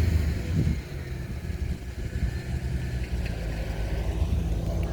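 Car engine idling with a steady low rumble, settling down from a rev about a second in.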